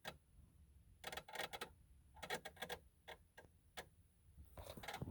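Faint, irregular clicking and ticking in short clusters from a parked truck whose engine is off; the cause of the noise is unknown.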